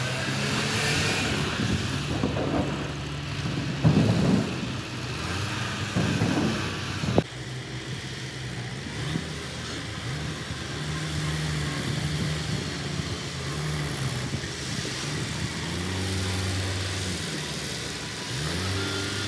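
Tractor engine running, its pitch rising and falling, with a couple of sharp knocks about four and seven seconds in.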